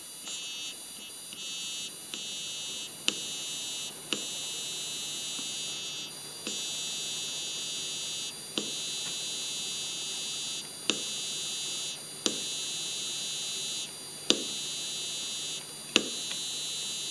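Logitech Z533 speaker system giving off a high-pitched electronic whistle of several steady tones, stepping up and down in level, with a sharp click every second or two. The whistle is the fault traced to a faulty capacitor in the unit.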